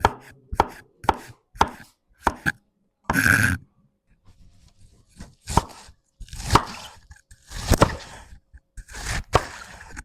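Knife chopping food on a cutting board: quick sharp strokes about twice a second at first, then slower, heavier chops, with a short rush of noise about three seconds in.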